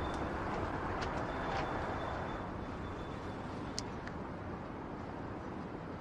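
Steady background ambience like distant traffic, with a few faint clicks.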